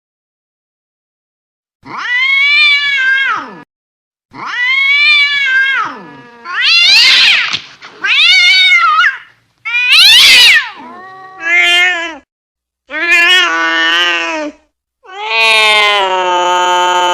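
Domestic cat caterwauling angrily: about eight long, drawn-out yowls that rise and fall in pitch, one after another with short gaps, starting about two seconds in.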